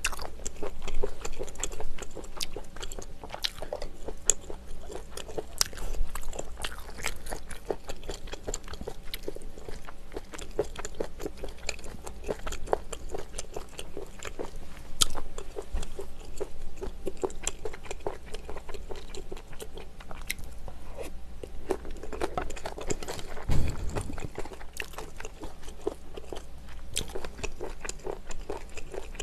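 Close-miked chewing and biting of food, a steady run of wet clicks and crunches. A brief dull thump comes about two-thirds of the way through.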